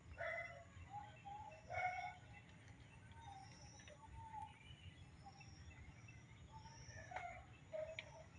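Birds calling, faint: two short calls in the first two seconds, then scattered fainter chirps and a repeated high thin note.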